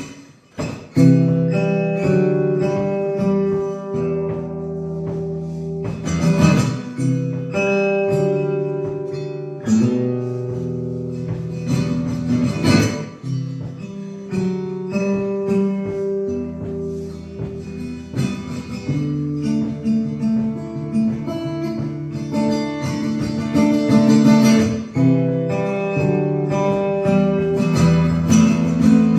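Solo acoustic guitar playing an instrumental piece, plucked melody notes and chords over low bass notes.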